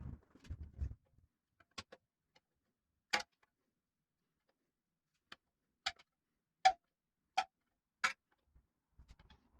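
About six sharp, separate clicks and taps at uneven intervals, the loudest about two-thirds of the way in, from tools and engine parts being handled during engine assembly.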